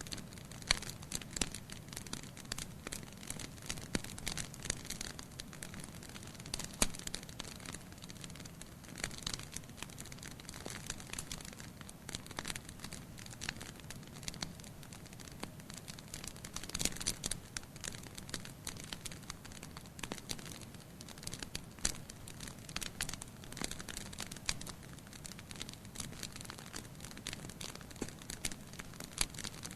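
Burning firewood crackling in a fireplace: a steady scatter of small, sharp pops and snaps over a soft low hiss, with a denser flurry of crackles about halfway through.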